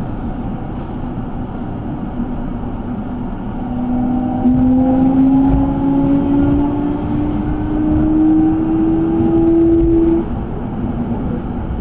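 Electric train running, with rumbling wheel and track noise. A motor whine comes in about four seconds in, rises slowly in pitch, and cuts off about ten seconds in.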